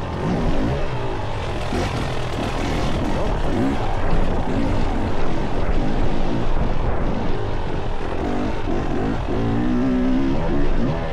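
Dirt bike engine revving up and down as it is ridden, its pitch rising and falling repeatedly and climbing highest near the end.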